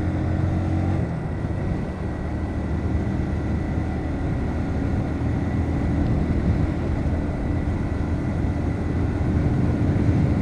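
Bajaj Pulsar NS125 single-cylinder motorcycle riding along, its engine running steadily under the rush of wind noise, with a small change in engine note about a second in.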